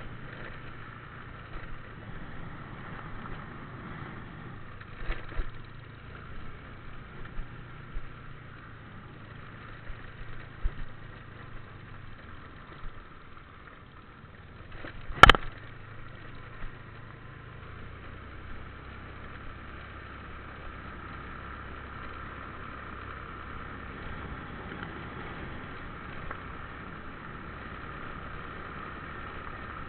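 A motor vehicle engine running steadily, with one sharp click about fifteen seconds in and a shift in the engine's hum a few seconds later.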